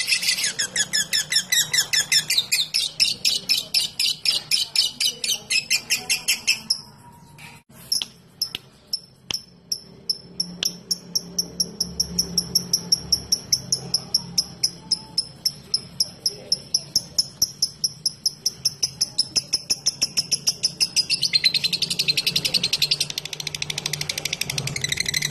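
Lovebird calling: a dense, rapid chattering trill breaks off about six or seven seconds in. After a short pause it goes on as a long, fast run of thin, evenly spaced ticking notes, the 'ngetik' call. It swells back into dense chatter near the end.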